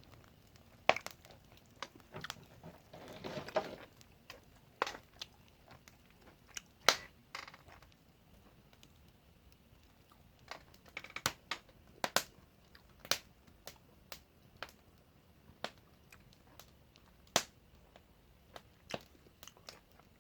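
Eating sounds: scattered sharp clicks and taps, like utensils on dishes, with a few short stretches of crunchy chewing, the longest about three seconds in.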